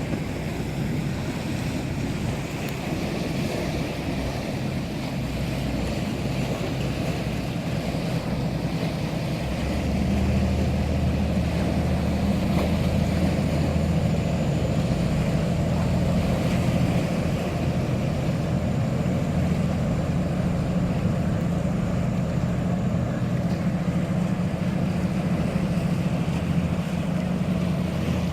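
Sea waves and wind on the microphone, joined about ten seconds in by the low steady drone of a boat engine that makes the whole scene louder.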